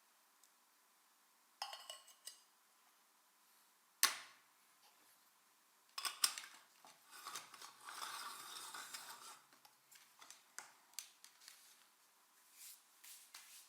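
Metal kitchenware being handled, with scattered clicks, a sharp knock about four seconds in, and a longer clatter of contacts from about six to nine seconds.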